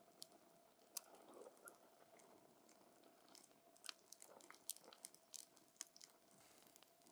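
Wood campfire crackling faintly, with irregular sharp pops and snaps over a soft hiss.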